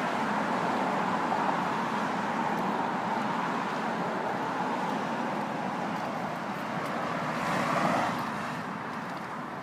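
Steady road traffic noise, with one vehicle passing a little louder near the end.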